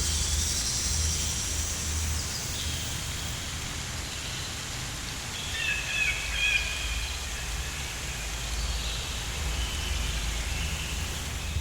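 Outdoor nature ambience: a steady hiss like rain with a low rumble, and a few short bird calls near the middle.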